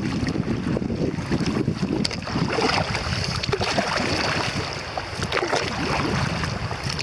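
River water splashing and gurgling around a kayak as it moves through the current, with wind buffeting the microphone.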